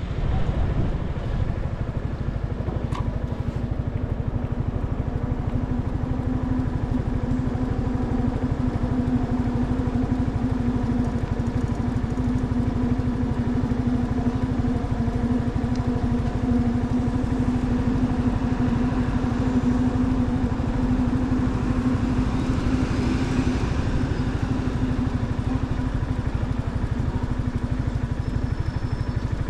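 Motorcycle engine running steadily at low revs, a low even note that holds without rising or falling.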